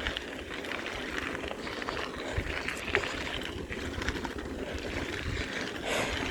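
Wind on the microphone and road rumble from a bicycle being ridden, with a few faint clicks and rattles.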